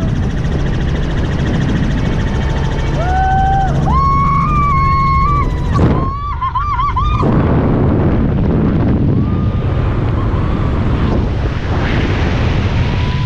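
Helicopter in flight: loud, steady rotor and engine noise with wind buffeting the microphone. In the middle, a few short high sliding tones rise above the din.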